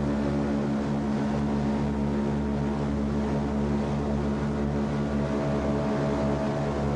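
The four Wright R-1820 Cyclone radial engines of a B-17 Flying Fortress, heard from inside the fuselage in flight: a steady drone with a regular throbbing beat between the engines.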